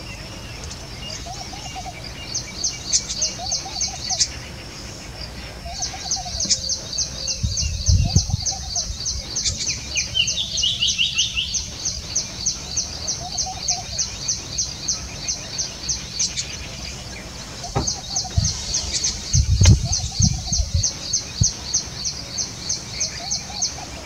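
Birds chirping: rapid, evenly spaced high chirps, several a second, in long runs with short breaks, over a lower call repeated every couple of seconds. Two dull low thumps stand out, one about a third of the way in and one later on.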